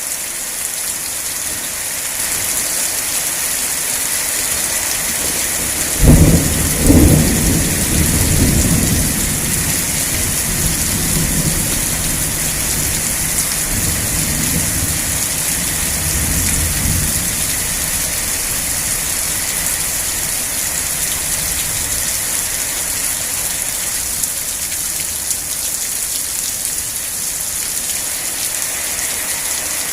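Steady rain falling, with a sudden crack of thunder about six seconds in, a second crack a second later, and low rumbling that dies away about ten seconds after.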